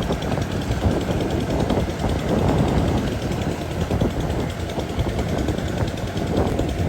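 Rice combine harvester running steadily, a dense, even machine noise with no break.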